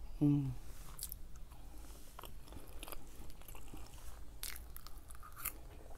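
A person eating close to the microphone: chewing and biting forkfuls of food, with scattered small mouth clicks. A brief hummed sound comes just after the start and is the loudest moment.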